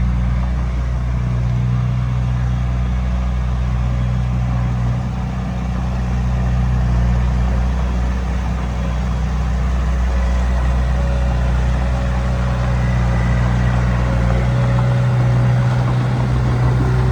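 Heavy diesel engine running steadily, with a slight drop in level about five seconds in.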